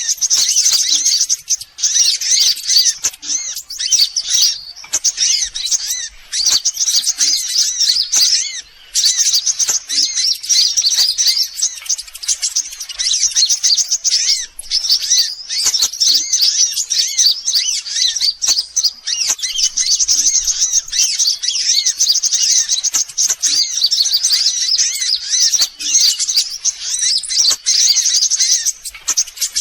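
Dense, rapid high-pitched twittering and trilling of sunbirds, a continuous bird-lure call recording, with a short break about nine seconds in.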